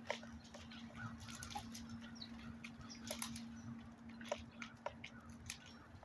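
Birds pecking: irregular sharp taps and clicks, with a steady low hum underneath.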